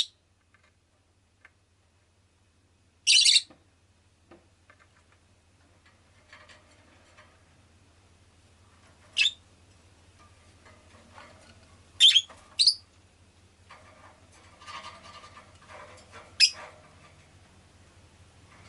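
Rosy-faced lovebird giving short, shrill calls, six in all and spread out, two in quick succession about twelve seconds in. Under them a faint steady low hum and quieter noise that grows louder near the end.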